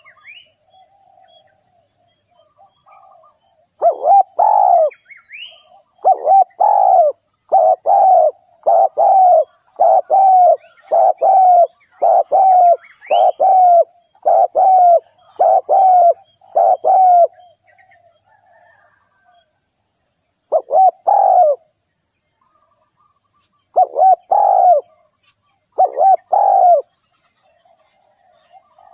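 Spotted dove cooing: a long run of short coos at a little under one a second, then a pause and a few coos in pairs. Faint chirps of small birds sound in the background.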